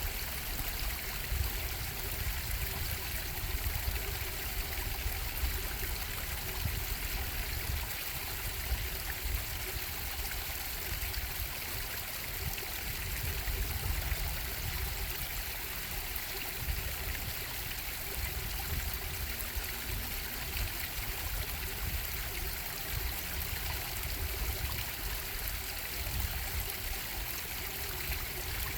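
Stream water running and bubbling steadily, with a low rumble and a bright hiss of falling water.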